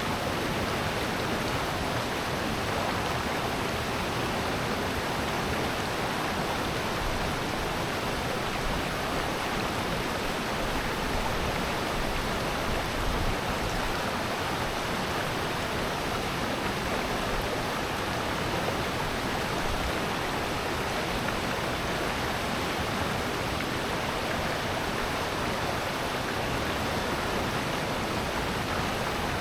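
Water in a mountain valley stream rushing steadily, an even unbroken hiss with no other events.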